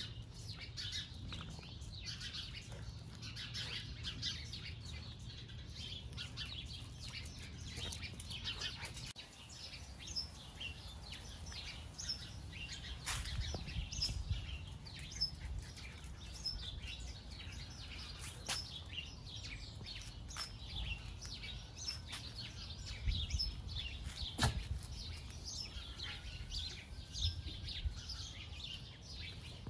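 Many small birds chirping, a dense stream of short high chirps, over a steady low rumble, with a few sharp clicks.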